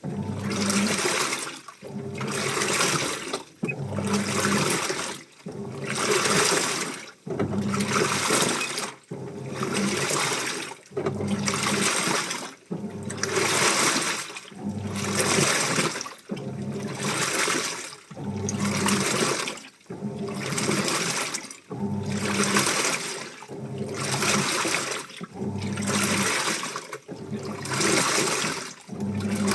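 Washing machine in its wash cycle, water and clothes sloshing in the drum in a steady rhythm of surges, a little under one a second, with a low motor hum in each surge.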